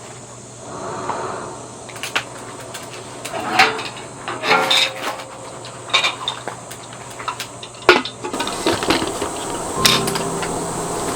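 Dishes and utensils clinking and knocking as they are handled, a scatter of irregular clatters over a steady low hum.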